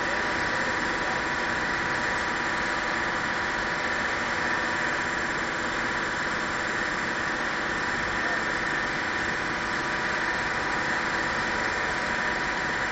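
An engine running steadily at a constant speed, an even drone with no changes.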